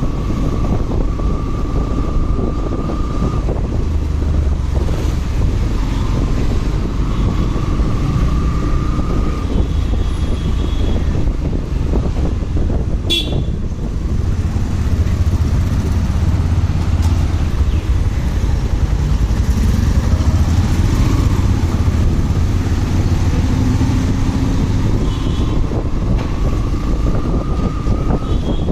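Motorcycle riding through city traffic: a steady engine and road rumble, with vehicle horns sounding, held for a couple of seconds each, several times.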